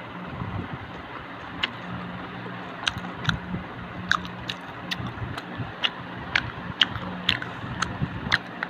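Crisp deep-fried prawn vada being chewed close to the microphone: irregular sharp crunches, about two a second, starting about one and a half seconds in, over a steady background hum.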